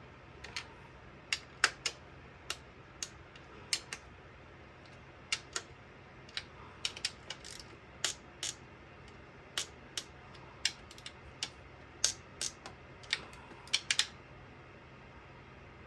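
Scattered sharp clicks and taps, singly or in quick pairs at an uneven pace, from hand tools and engine parts being handled and fitted.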